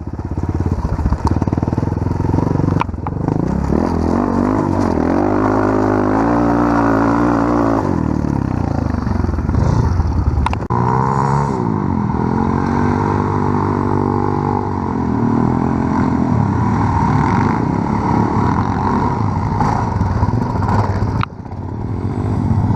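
Small off-road engine revving in two long bouts, its pitch rising and falling, with steadier running between and a drop near the end.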